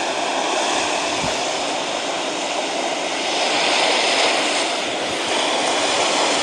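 Steady rushing of ocean water, swelling slightly around the middle.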